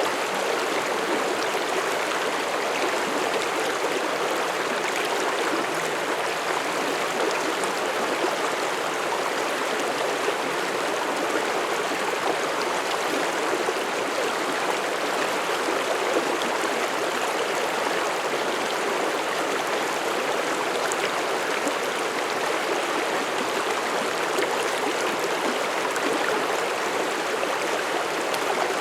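Mountain stream flowing steadily over rocks, a constant rushing of water.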